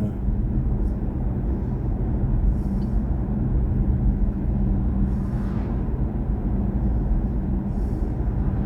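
Steady road and tyre rumble heard inside the cabin of a BMW i4 M50 electric car cruising along, with no engine note.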